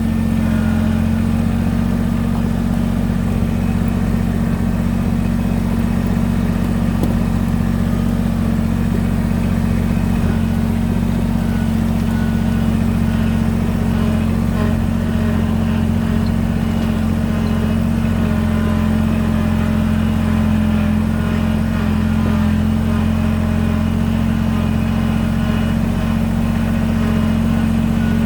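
Kubota BX23S compact tractor's three-cylinder diesel engine running steadily at an unchanging engine speed.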